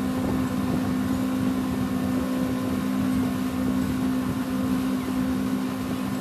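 Engine running at a steady speed: a constant low hum with a rushing noise underneath.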